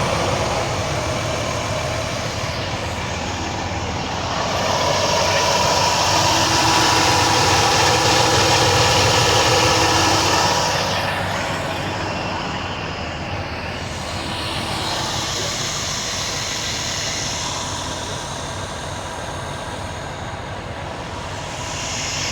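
Semi-truck diesel engine running at idle, a steady rumble that swells louder for several seconds in the middle before settling back.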